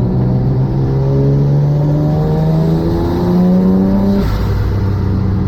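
Mazda MX-3's engine pulling under a light acceleration run, its pitch rising steadily, then dropping abruptly about four seconds in with a short hiss as the gear is changed up, and settling at a steady lower pitch.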